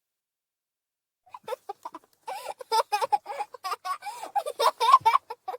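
Male toddler laughing while being tickled: rapid, choppy bursts of high-pitched giggling that start about a second in and keep going.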